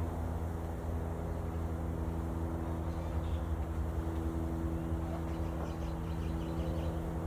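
Many honeybees buzzing around the hive, a steady multi-pitched hum whose tones drift slightly as bees move near and away.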